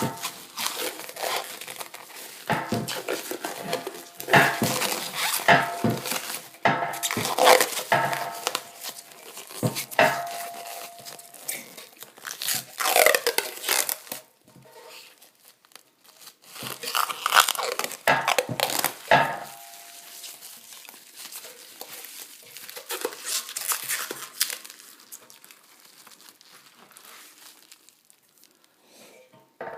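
Plasti Dip rubber coating being peeled off a motorcycle fuel tank by hand: irregular tearing and crinkling as the sheet pulls away, in uneven bursts with short pauses, softer over the last several seconds.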